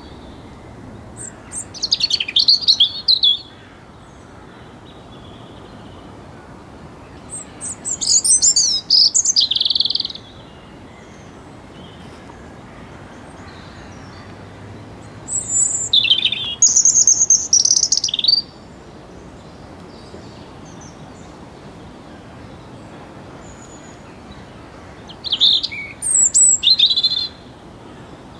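European robin singing: four short, high, warbling song phrases, each about two to three seconds long, with pauses of several seconds between them.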